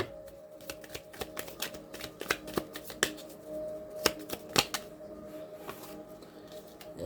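A deck of tarot cards being shuffled and handled, the cards snapping and flicking against each other in quick irregular clicks.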